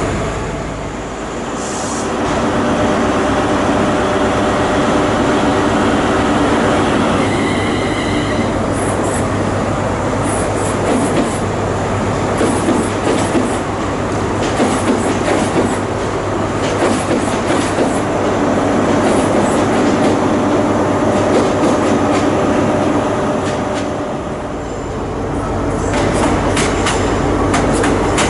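Train moving along the track at a station with a steady drone. About seven seconds in there is a brief high tone. From about nine seconds on, the wheels click sharply and repeatedly over the rails.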